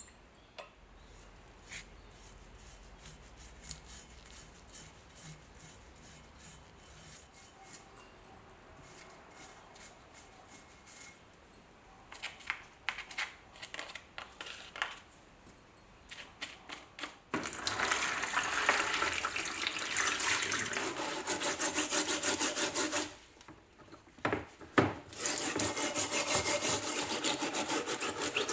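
Hand scraping and rubbing strokes on the steel of a bayonet, faint and intermittent at first, then loud and continuous from about two-thirds of the way in, with a brief pause shortly before the end.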